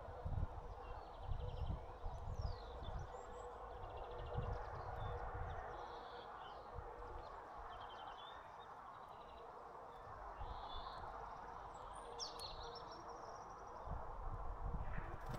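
Small birds at a seed feeder chirping and twittering in many short calls over a steady background hiss, with low rumbling near the start and again near the end.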